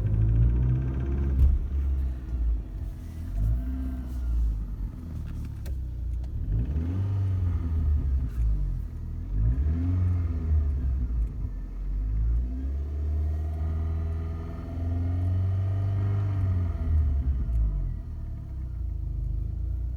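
BMW M43TU four-cylinder petrol engine heard from inside the car's cabin, revved up and let fall back several times, with a knock and clicking noises that the owner is trying to track down.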